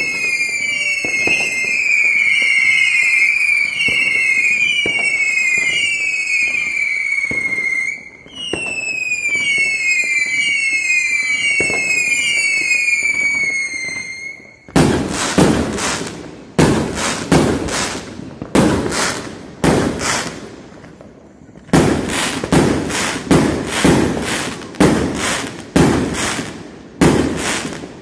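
Fireworks: a rapid series of high, overlapping whistles, each falling in pitch, for about the first half. Then a run of loud firework bangs about once a second, with a short pause near the end.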